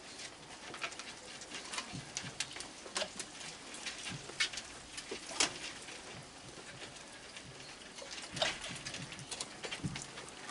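A crowd of raccoons feeding: irregular sharp clicks, taps and scuffling patter of claws and chewing, with no steady rhythm.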